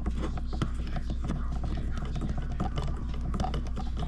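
A plastic wire nut being twisted down onto a bundle of black household wires, making irregular small clicks and scraping, over a steady low hum.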